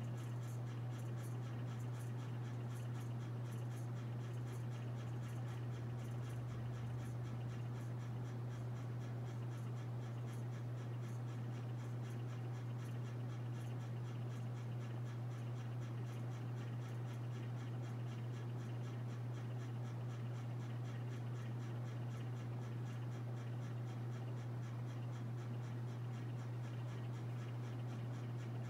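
Harbor Breeze Armitage 42-inch ceiling fan running: a steady low motor hum with a faint, fast, even ticking or scratching that repeats with the blades' rotation.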